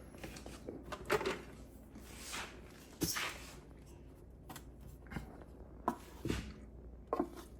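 Kitchen items being handled: scattered light clicks and knocks with a couple of brief rustles, the loudest knock about three seconds in.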